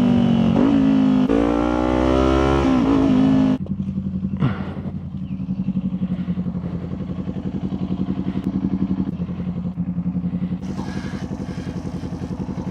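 Motorcycle engine running under way, its pitch dipping and rising as the revs change. About three and a half seconds in it drops suddenly to a quieter, steady, low-revving run with an even pulse.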